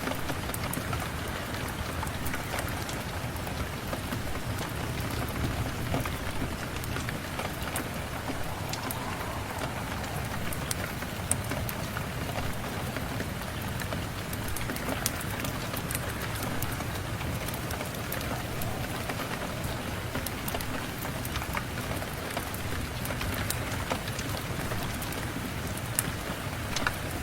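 Steady rain falling on a surface, with many scattered sharp ticks of single drops throughout.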